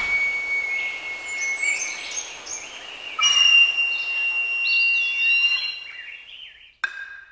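Birdsong: a long, steady whistled note, then a higher one, with quicker chirping notes over them, fading out near the end. A single short click just before it dies away.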